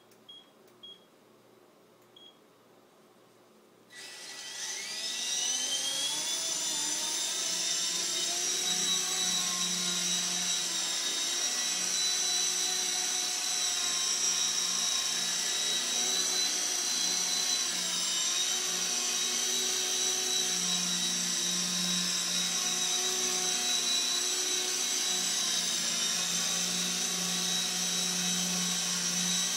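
CB180Q small electric RC helicopter spooling up: a few short faint beeps, then about four seconds in the motor starts with a rising whine and settles into a steady high-pitched whine over a rotor hum that swells and fades as it hovers.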